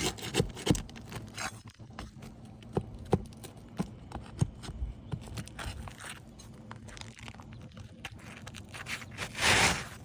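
Scattered sharp taps and knocks of hand tools working old asphalt roof shingles loose and pulling their nails, with light scraping of the shingles. A louder rough scrape comes about nine seconds in.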